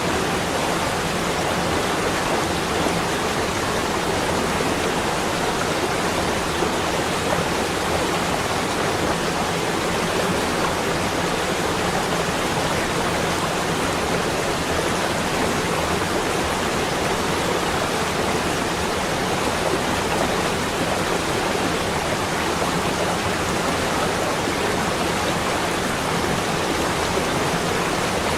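Steady, even rushing noise of a winter snowfall ambience, with no separate events or changes.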